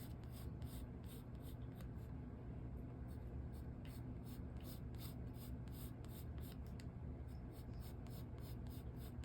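Pencil scratching on paper in quick, repeated short strokes, several a second, over a steady low hum.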